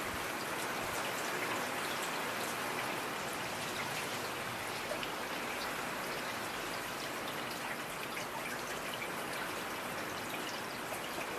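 Steady rain falling, with scattered individual drops ticking through a continuous hiss.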